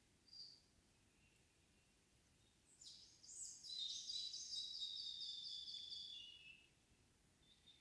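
A songbird singing one song of about four seconds: a fast run of evenly repeated high notes that ends on a lower note, after a single short chirp about half a second in. The background is otherwise very quiet and still.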